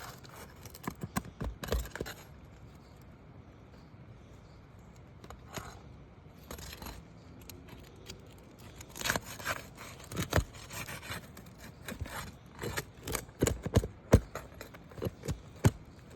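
Nails being pried out of asphalt roof shingles with a metal hand tool: scraping against the shingles and sharp clicks and knocks. There is a cluster of them in the first two seconds, a quieter stretch, then a denser run through the second half.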